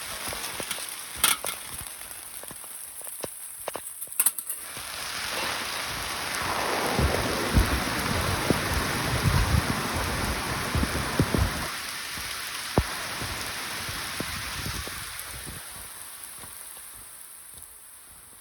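Rain falling steadily. A couple of sharp clicks come in the first few seconds. The rain swells louder and deeper through the middle, then eases off gradually near the end.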